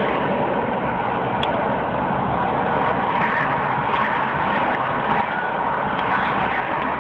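Steady noise of a car being driven, road and engine sound at an even level with no sudden change.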